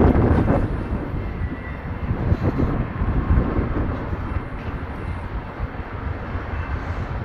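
Double-stack intermodal well cars rolling past on the track: a steady rumble of steel wheels on rail, with a louder clatter right at the start and a few more knocks a couple of seconds in.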